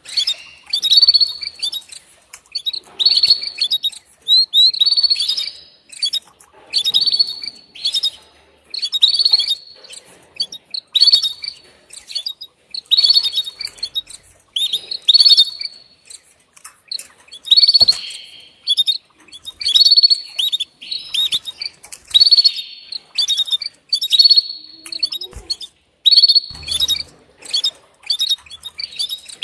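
Female canary giving its mating call to a male: short chirping phrases repeated about every two seconds.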